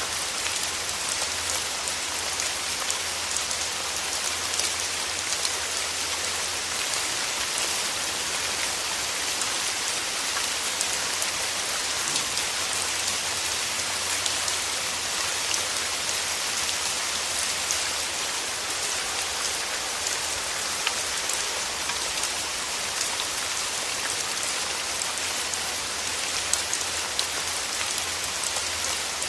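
Steady rain: an even hiss of many small drops, with scattered sharper drop ticks.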